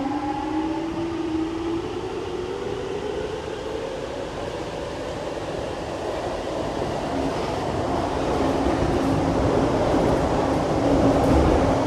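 Siemens C651 metro train accelerating: the traction motor whine rises steadily in pitch over the first few seconds under the rumble of the wheels. The rumble then grows louder toward the end, with a steady low hum, as the train runs at speed.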